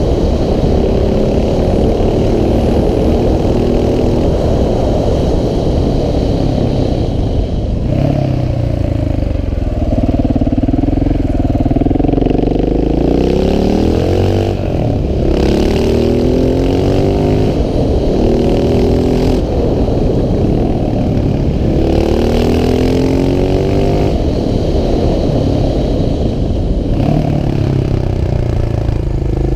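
KTM 690 SMC R's single-cylinder engine accelerating uphill, its revs climbing in repeated rising sweeps through the gears and dropping back between them.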